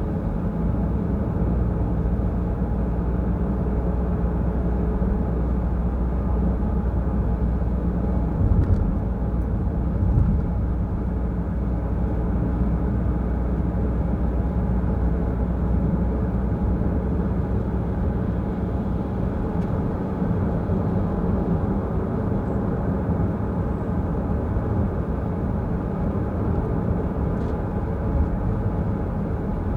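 Car driving on a wet road: steady engine and tyre noise, with two short thumps about nine and ten seconds in.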